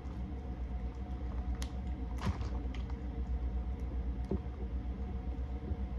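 Scattered small clicks and smacks of eating and handling food close to the microphone, over a steady low hum.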